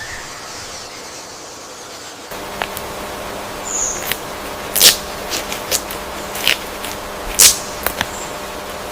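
Forest ambience: a steady background hiss that changes abruptly a couple of seconds in, then scattered sharp clicks or snaps, with a couple of short high chirps.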